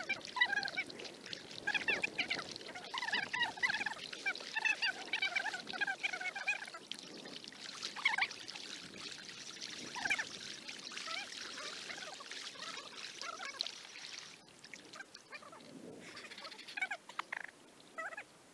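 Birds calling in quick runs of short pitched notes for the first half, after which a steady hiss takes over.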